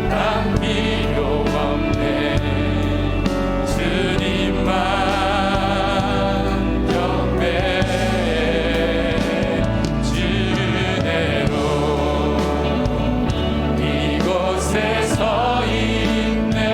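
Live church praise band playing a worship song, with keyboards, bass, electric guitar and drums under sustained singing voices.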